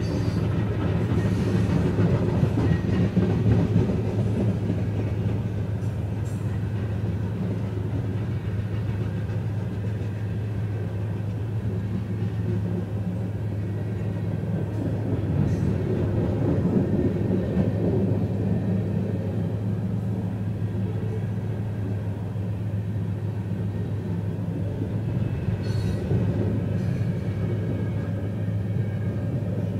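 A steady low rumble with a constant low hum under it, with a few faint ticks on top.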